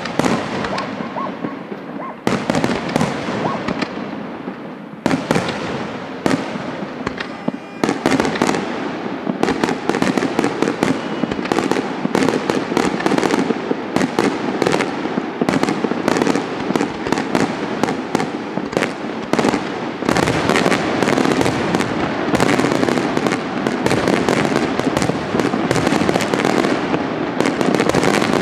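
Aerial fireworks display: shells bursting one after another in a dense run of bangs and crackle, thickening into a near-continuous barrage about eight seconds in and again near twenty seconds.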